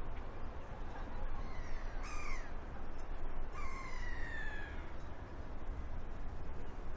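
A large bird gives two harsh, descending calls, the first about a second and a half in and the second near the middle, over a steady low rumble.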